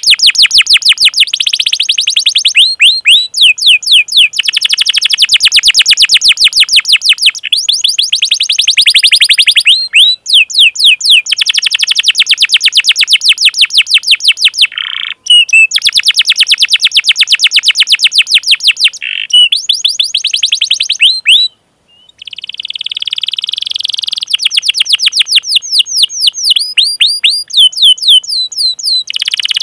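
Domestic canary singing: long runs of very fast, evenly repeated chirping notes ('cuit cuit'), rolled into trills lasting several seconds each, broken by brief pauses, one of them about two-thirds of the way through.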